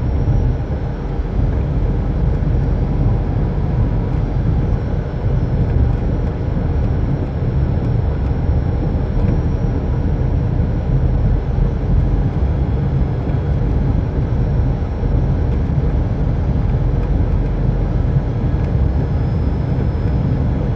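Airbus A320 flight deck noise on final approach: a steady, loud rush of airflow and engine sound, heaviest in the low end, with a faint steady high whine over it.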